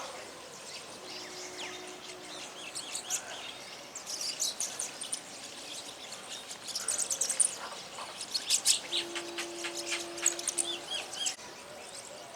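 A flock of small songbirds chirping and twittering, many short high calls and trills overlapping, sparse at first and growing busy in the middle before thinning out near the end.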